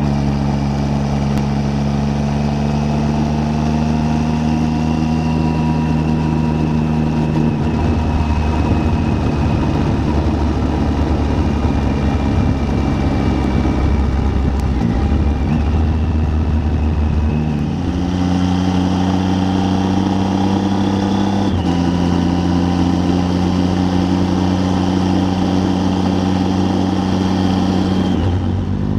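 Triumph Tiger 800's three-cylinder engine running at a steady cruise under a hiss of rushing wind. The engine note holds steady, drops about a third of the way in, steps up about two-thirds of the way in, and begins to rise as it accelerates at the very end.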